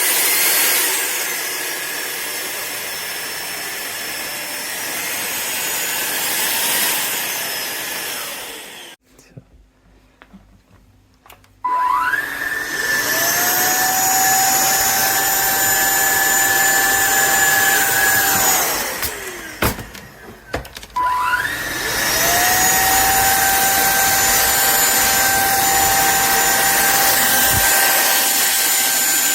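SunSare cordless stick vacuum's motor whining steadily, then switched off and winding down at about 8 seconds. It starts again with a rising whine about three seconds later, winds down once more near the middle with a few knocks, and spins back up to run steadily.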